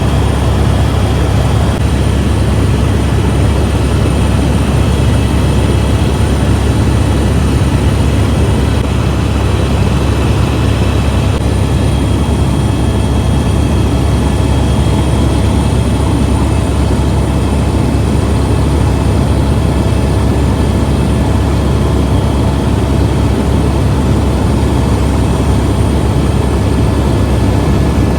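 Helicopter in flight, its engine and rotor running steadily: a loud, even drone with a few faint steady whines above it.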